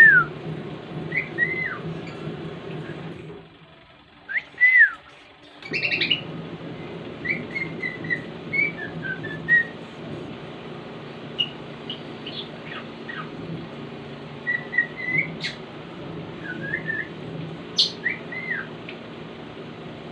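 Cockatiel whistling a series of short, sliding whistled notes and chirps, with pauses between phrases.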